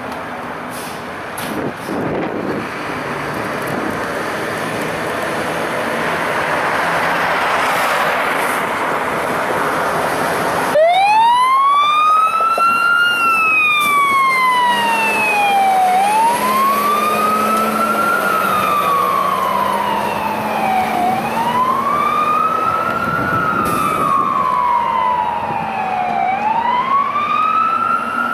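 Fire truck approaching, its road and engine noise growing louder, then about ten seconds in its siren starts abruptly and wails in slow cycles of about five seconds, each rising quickly and falling more slowly.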